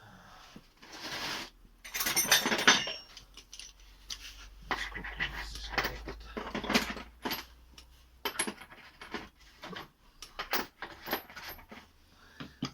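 Metal tools clinking, knocking and scraping against a rusty VAZ 2115 steering rack being taken apart by hand, in irregular bursts with a few longer scrapes.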